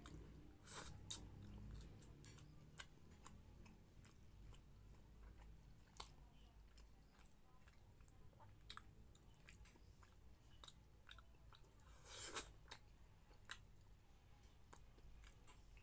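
Faint close-miked chewing of rice and pork menudo, with scattered soft wet mouth clicks. One louder mouth noise comes about twelve seconds in.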